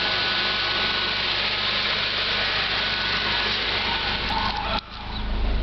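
1997 Chevrolet Kadett GL's 2.0 MPFI four-cylinder engine running steadily. About four and a half seconds in, the sound briefly drops out, then comes back with a heavier low rumble.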